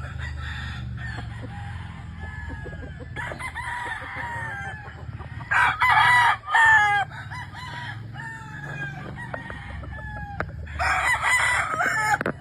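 Several gamefowl roosters crowing one after another, overlapping. The loudest crows come about six seconds in and again near the end, over a steady low rumble.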